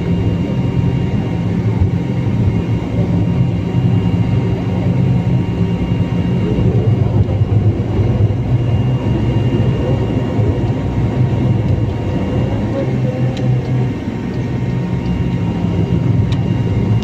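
Cabin noise of a BAE 146 after landing: its turbofan engines running at idle give a steady low hum with a thin high whine above it. Two faint clicks come near the end.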